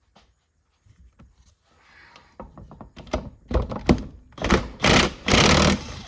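Impact wrench hammering on a left-hand-threaded nut on a transmission gear-stack shaft to break it loose. Scattered knocks and short trigger blips build into two longer bursts of rapid hammering near the end.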